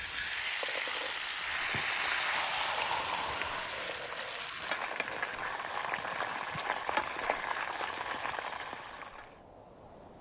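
Meat sizzling over heat: a steady frying hiss dotted with fine crackles, fading away about nine seconds in.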